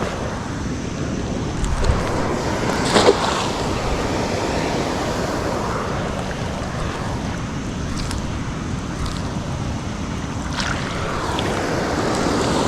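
Steady rush of falling water from a river waterfall, with wind buffeting the microphone. A few brief knocks and clicks cut through it.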